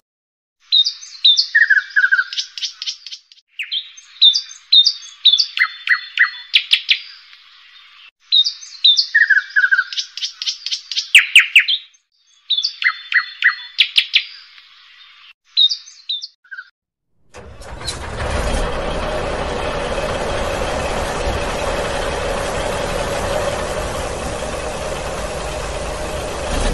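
Birds chirping and calling in repeated bursts of a few seconds each. About two-thirds of the way through, the chirping gives way to a steady vehicle engine sound that keeps running.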